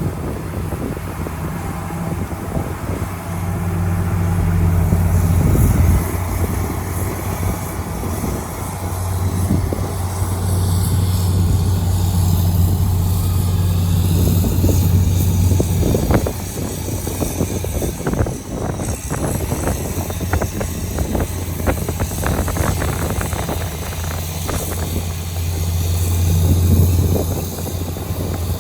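Heavy diesel earthmoving machinery working, the engine's low drone swelling under load several times, with a run of knocks and rattles in the middle.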